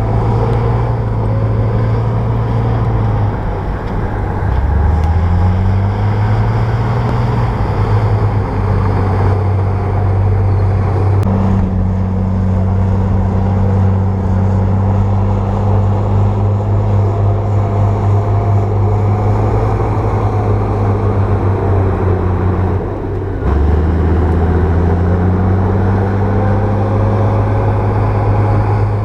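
Bulldozer diesel engine running hard while pushing soil. Its low pitch drops sharply twice and each time climbs back up over a couple of seconds.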